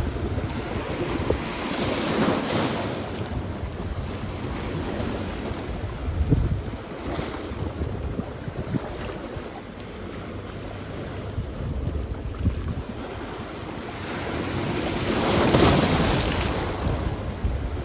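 Sea waves washing onto the shore, swelling twice (once about two seconds in and more strongly near the end), with wind buffeting the microphone as a low rumble throughout.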